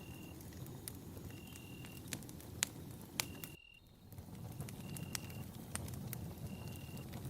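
Campfire burning, with a low steady rumble and scattered sharp crackles and pops. A short, steady, high-pitched tone repeats about every second and a half throughout. The whole sound cuts out briefly about three and a half seconds in.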